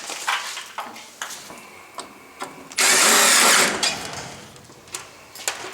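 Power driver running for about a second, driving a screw into a joint of the water heater's metal exhaust vent pipe, with small clicks and handling knocks before and after.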